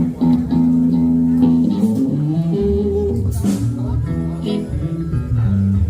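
Live band music: guitar over a bass line, held chords that change every second or so.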